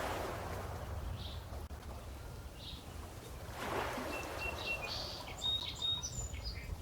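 Small songbirds chirping with short, thin whistled calls, more of them in the second half. Under them runs a steady low outdoor rumble, and lake water washes softly twice, at the start and about four seconds in.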